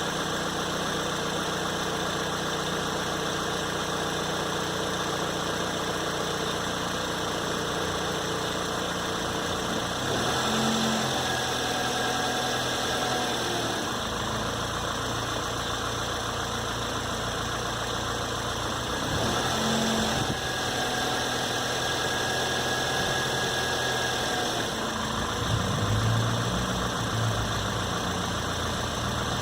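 A 2006 Toyota Corolla's engine idling steadily, its note shifting briefly about ten, twenty and twenty-five seconds in, with a thin higher whine that comes and goes.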